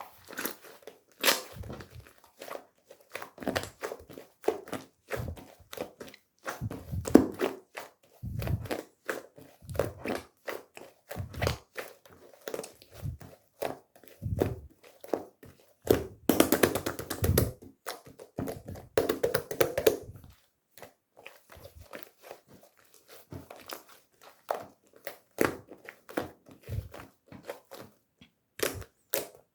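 Hands working a homemade paper-and-tape squishy: irregular taps and knocks with bursts of crinkling and rustling, the longest about halfway through.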